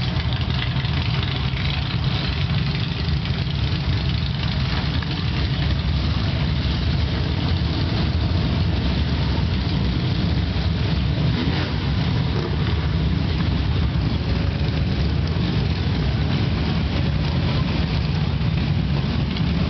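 A group of motorcycle engines running together in a steady low rumble.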